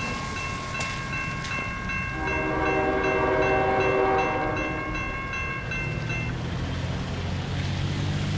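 Train horn blowing one long chord for about three and a half seconds, starting about two seconds in, over the low rumble of a diesel locomotive that grows louder near the end. A high ringing with a rapid pulse runs under it and stops about six seconds in.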